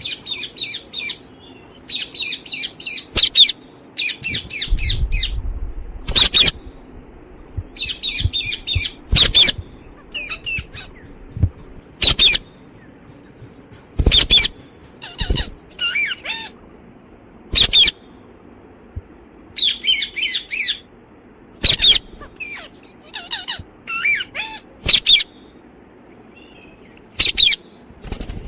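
Pet Psittacula parakeet calling: bouts of rapid, high-pitched chattering broken by about a dozen short, loud, sharp screeches spaced a few seconds apart.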